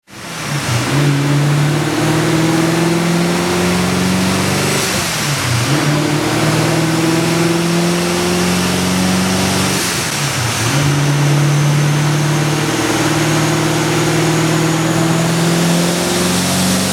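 Twin-turbocharged 5.0 V8 of a 2012 Ford Mustang GT running hard on a chassis dyno. Its pitch is held high and creeps slowly upward, with two brief dips about five and ten seconds in, and a faint high turbo whine rises underneath.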